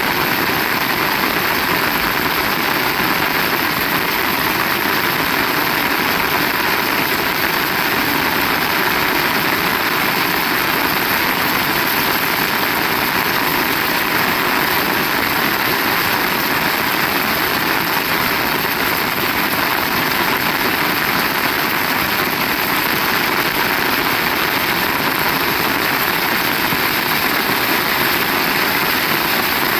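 Heavy rain falling hard: a loud, steady, even hiss with no breaks.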